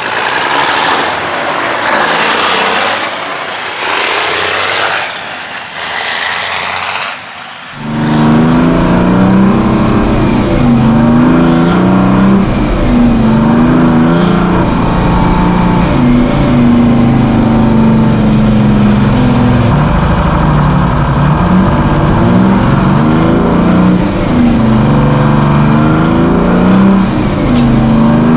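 Semi truck diesel engine pulling hard, its pitch climbing and then dropping again several times as it shifts through the gears. For the first eight seconds there is only a noisy rush that swells and fades a few times, then the sound cuts abruptly to the engine.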